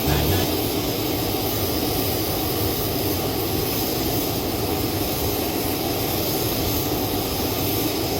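Jet engines of an Airbus airliner running with a steady, unchanging rush.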